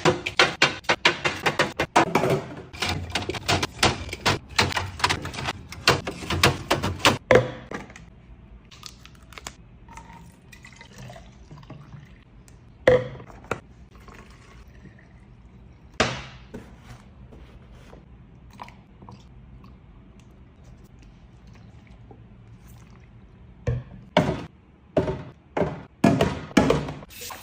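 Containers and groceries being handled and set down in a fridge, a quick run of knocks and clatters, then a quieter stretch with a few single knocks, and another burst of clatter near the end.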